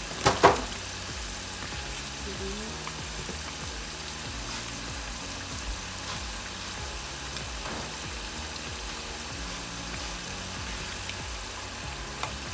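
Flour-coated chicken tenders deep-frying in oil, a steady sizzle, with two sharp knocks right at the start and another near the end.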